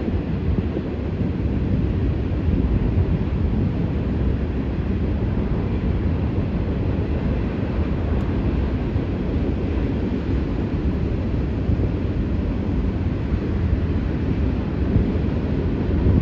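Empty grain cars of a long freight train rolling past, a steady noise, with wind buffeting the microphone.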